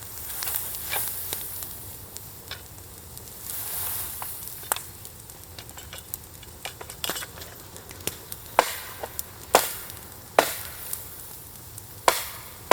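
Campfire burning on a bed of embers with freshly added fuel: a faint steady hiss with irregular sharp cracks and pops, several of them loud in the second half.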